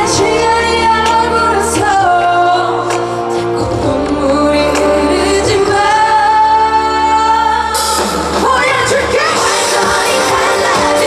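Live pop song: a female singer sings over a backing band, holding one long note near the middle, after which the accompaniment becomes fuller with bright cymbals about eight seconds in.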